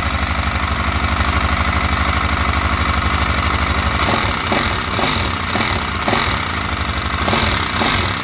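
Freshly rebuilt 166FMM single-cylinder four-stroke motorcycle engine running just after starting, with an even low pulsing beat. It is running with no oil reaching the cylinder head, so the head runs dry. From about four seconds in a sharper, repeated clatter joins the running.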